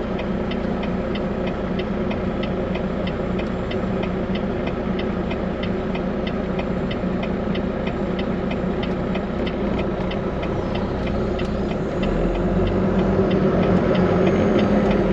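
Semi truck's diesel engine running steadily, heard inside the cab, with an even fast ticking of about three ticks a second. The engine grows louder about twelve seconds in.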